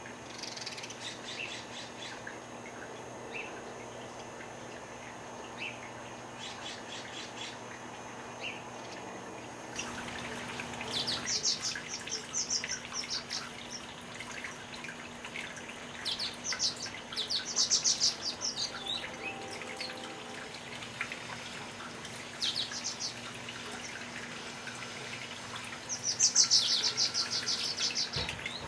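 Songbirds singing, with rapid high twittering and trilled phrases that come louder and more often from about ten seconds in.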